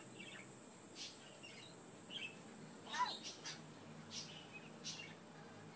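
Rainbow lorikeet giving short, scattered chirps and squeaks, about eight over a few seconds, the loudest about three seconds in.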